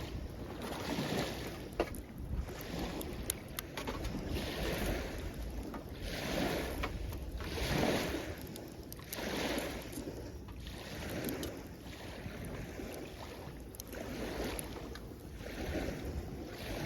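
Small waves washing up the shore in repeated swells, about one every one and a half to two seconds, with the sharp crackles and pops of a wood campfire scattered through them and a low wind rumble on the microphone.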